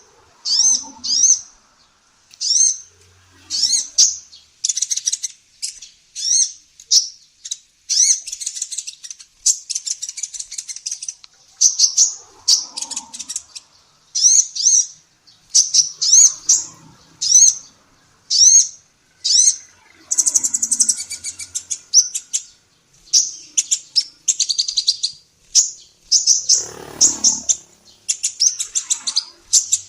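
Female kolibri ninja sunbird singing: a fast, busy string of high, thin chirps and short sweeping notes, some run together into rapid trills. A brief low rumble cuts in a little before the end.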